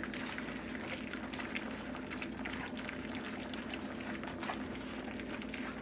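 A litter of four-week-old puppies lapping and chewing soft mash of soaked, mashed dog food: a continuous wet patter of many small smacking and slurping clicks.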